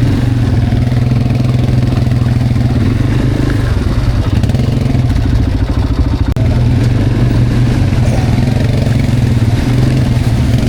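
Quad bike engine running steadily while it is ridden along a rough trail, dipping briefly about six seconds in.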